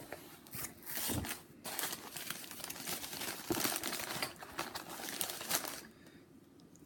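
Packing material crinkling and rustling as it is handled and pulled out of a freshly opened shipping box. The crackling is dense for the first six seconds and then dies down.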